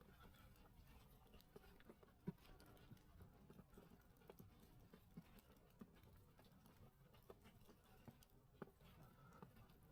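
Faint footsteps in snow at a steady walking pace, about one and a half steps a second, over a low hiss, with one sharper knock about two seconds in.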